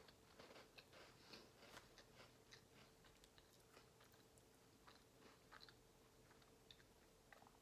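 Faint, irregular crunching and chewing of buttery crackers topped with shredded cheese, with many small sharp crunches spread through the stretch.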